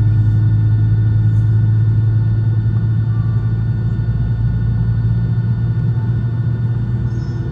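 Steady low drone of a Boeing 757-200's engines and air system heard from inside the passenger cabin, with a few faint steady high tones over it.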